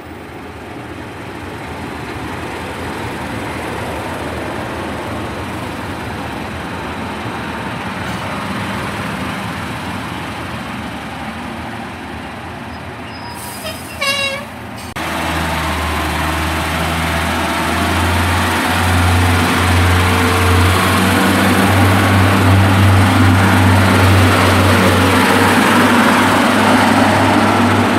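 Class 142 Pacer diesel multiple unit at the platform, its underfloor diesel engines running. About halfway there is a brief warbling pitched sound, then the engines open up with a loud low drone that builds as the unit pulls away.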